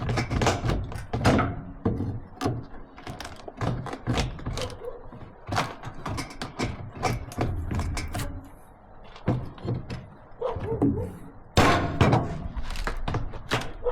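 Irregular thunks and knocks of wooden bed boards being pried loose and handled on an old pickup, with a burst of louder knocks near the end.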